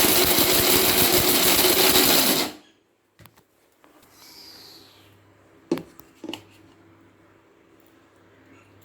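Electric mixer grinder (mixie) running briefly to grind minced mutton, then cutting off suddenly about two and a half seconds in. A few light knocks and clicks follow, likely from the jar being handled.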